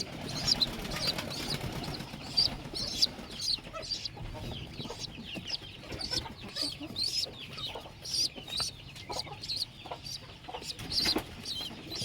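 Pigeon squabs peeping: a steady string of short, high-pitched begging cheeps, a few each second, with a louder call about eleven seconds in.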